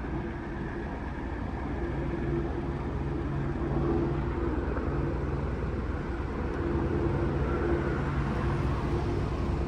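Police helicopter hovering overhead: a steady low drone with a constant hum, no change in pitch.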